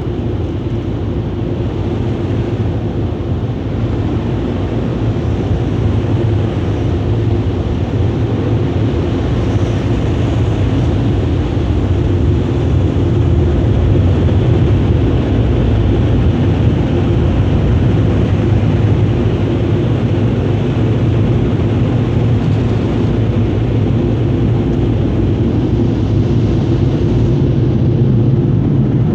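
Automatic car wash blower dryers running, a loud, steady rush of air with a low hum, heard from inside the car; it builds a little over the first half.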